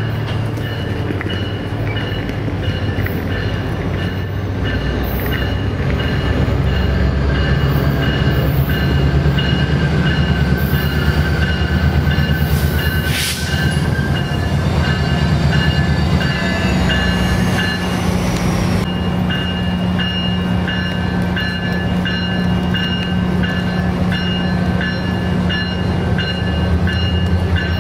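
Metrolink commuter train rolling into the station with its cab car leading, the low rumble growing as it nears and settling into a steady low diesel drone as it comes alongside. A high, repeated ringing runs through it all.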